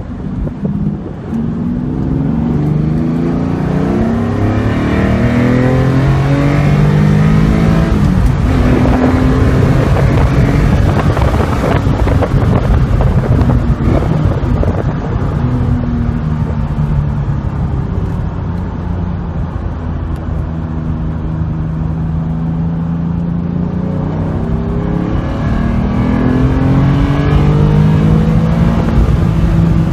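Car engine heard from inside the cabin, driven hard around a track. Its note climbs and then drops back several times with the gear changes, over steady road and wind noise.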